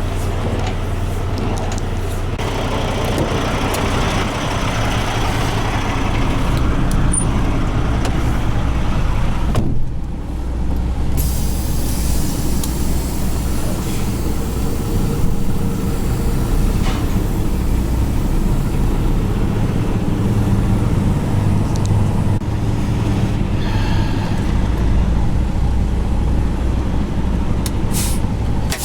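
Tractor-trailer truck's diesel engine running steadily, heard with road and cab noise; the sound briefly dips and shifts about ten seconds in.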